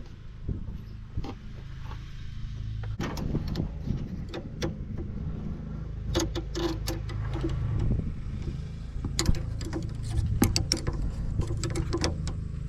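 An engine running steadily, with repeated sharp metallic clinks and knocks of hand tools working on machine parts.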